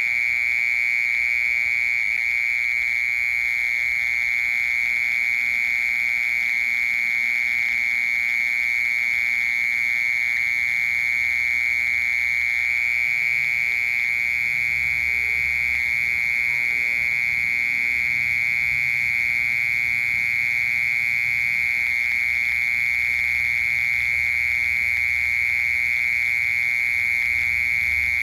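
A cricket's continuous song: one unbroken, steady, shrill trill held at a single high pitch, loud and even throughout.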